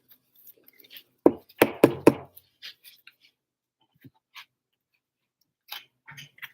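Trading cards and packaging being handled on a tabletop: four sharp knocks close together about a second and a half in, then faint ticks and rustles.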